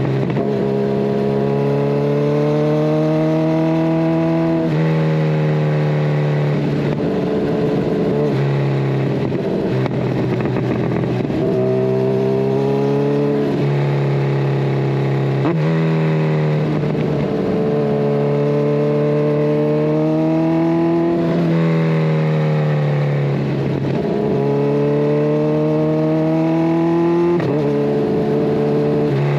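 Kawasaki Ninja 1000SX inline-four engine through a de-catted Scorpion Red Power exhaust, pulling through the gears on the road. The pitch climbs and then drops suddenly at each gear change, several times, with stretches where it falls away as the bike slows.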